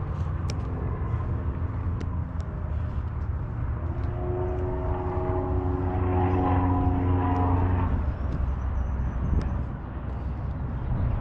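A passing engine's drone over a steady low rumble. The drone swells to its loudest between about four and eight seconds in, then fades.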